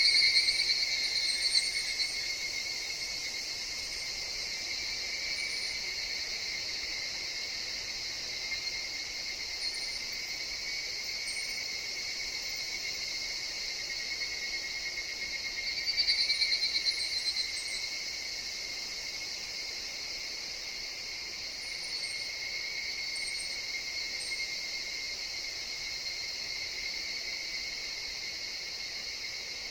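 Higurashi (evening cicada) chorus: a steady pulsing ringing with two louder swells of calling, one near the start and one about 16 seconds in. Faint short high chirps are scattered throughout.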